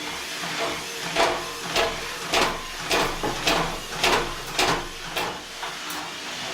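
Bosch WFL2462 washing machine's drum banging hard and repeatedly, about eight bangs roughly every 0.6 s, over the machine's steady running noise, fading out after about five seconds. The drum is badly unbalanced in its suspension, a fault the owner traced to worn shock absorbers.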